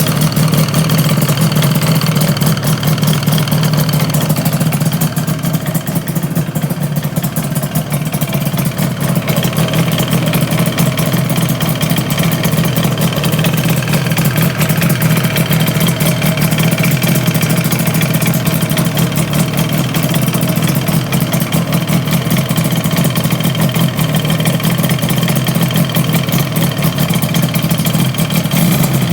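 Yamaha RZ250 with an RZ350 two-stroke parallel-twin engine running at a steady idle, with an abnormal noise that the owner has noticed from the engine.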